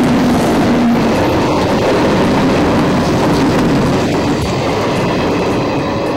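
Train running along the track: a steady, loud rumble of wheels and carriages.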